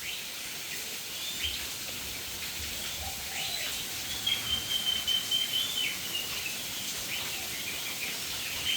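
Birds calling: scattered short, high chirps and a high note held steady for about a second and a half midway, over a faint steady hiss.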